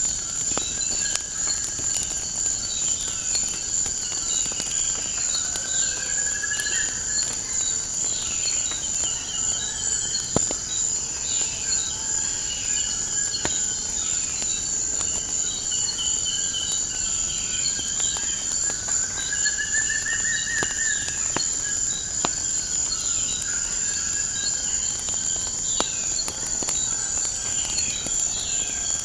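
Steady chorus of chirping crickets, with birds calling and trilling over it, including two rising trills. A fire crackles with scattered faint clicks.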